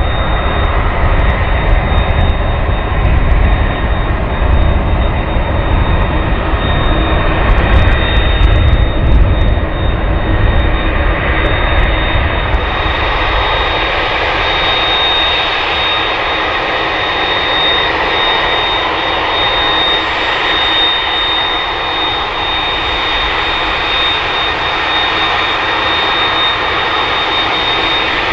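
Jet engines of a three-engined airliner running loud, a wide roar with a steady high whine on top. For about the first twelve seconds a heavy low rumble dominates. Then the sound changes abruptly to a thinner, hissier whine with less rumble.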